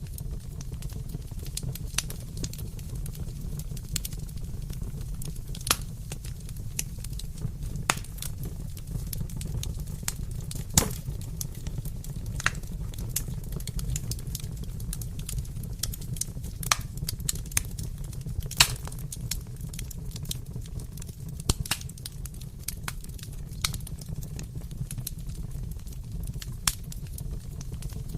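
Fireplace fire burning: a steady low rumble of flames with irregular sharp crackles and pops of burning wood, two louder pops about 11 and 18 seconds in.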